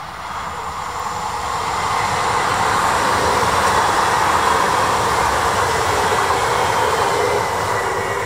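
Electric multiple unit passing at speed: a rush of wheels on rail and running gear that swells as the train draws level, is loudest around the middle, and fades as it goes away.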